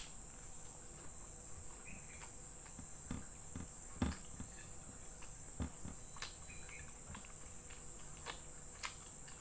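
A person chewing and smacking on a mouthful of fried chicken liver eaten by hand, with scattered soft wet clicks and a few low thumps, over a steady high-pitched whine.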